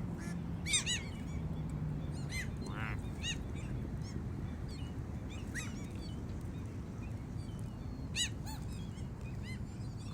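Gulls calling: short, arched cries repeated every second or two, over a low steady hum.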